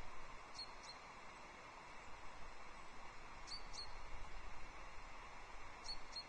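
A small songbird gives thin, high, downward call notes in quick pairs, three times, over a steady outdoor hiss.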